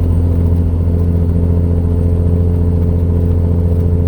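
Tractor-trailer's diesel engine running with a steady low drone, heard inside the cab.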